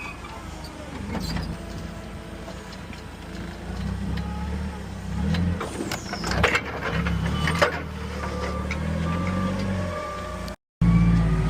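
Heavy vehicle engine running, with a couple of sharp mechanical knocks and a row of short, evenly spaced beeps in the second half.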